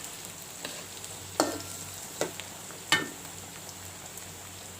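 Food sizzling in hot oil in a pan, a steady frying hiss, with three sharp ringing metal clinks on the pan about one and a half, two and three seconds in.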